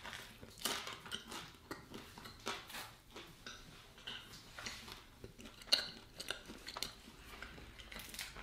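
A person chewing a mouthful of banitsa, a flaky Bulgarian cheese pastry: irregular soft crackles and clicks, with one louder click about two-thirds of the way through.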